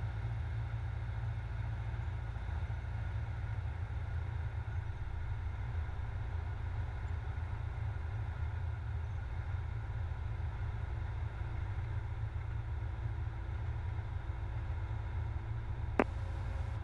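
Cessna 172SP's four-cylinder Lycoming engine and propeller droning steadily in flight, low and even. There is a single sharp click about a second before the end.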